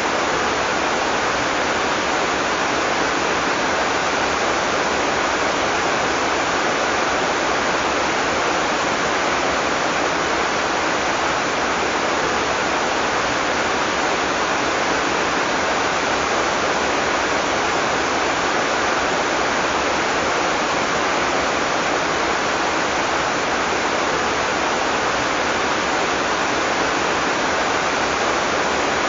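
Heavy tropical rain falling steadily, a dense even hiss of downpour without thunder.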